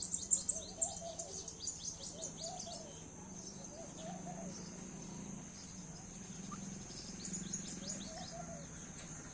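Outdoor birdsong: dense runs of quick high chirps at the start and again near the end, with a lower, repeated call about once a second, over a steady high-pitched insect drone.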